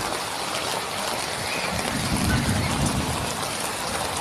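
Heavy rain falling steadily, with a low rumble a couple of seconds in.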